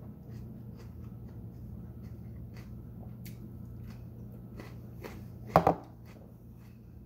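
Close-up mouth sounds of a person chewing food, a run of small crunchy, wet clicks, with one sudden louder mouth sound about five and a half seconds in.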